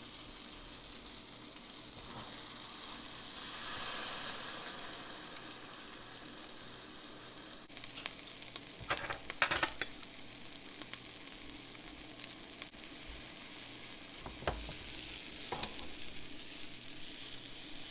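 A mayonnaise-coated sandwich sizzling faintly and steadily inside a closed waffle iron, the sizzle swelling about four seconds in. A few small knocks come around the middle and again near the end.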